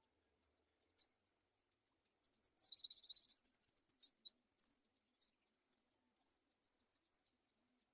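High, thin bird chirps, short notes in quick bursts, with a dense run of chittering a few seconds in and scattered single chirps after.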